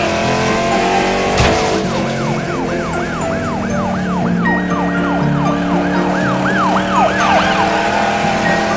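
Police siren sound effect in a fast rise-and-fall yelp, about three sweeps a second. It starts about two seconds in and stops near the end, over a background music track of sustained notes.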